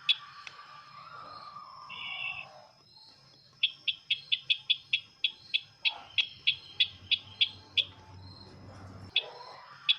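Lure call of the bird known locally as sisintar ladang: a rapid series of sharp chip notes, about four a second, after a short buzzy note and a lower sliding call, over a faint steady high whine.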